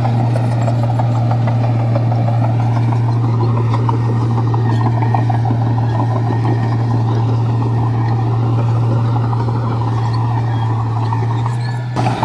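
Komatsu bulldozer's diesel engine running at a steady speed, a constant low drone with a dense rattle over it. The sound dips briefly near the end.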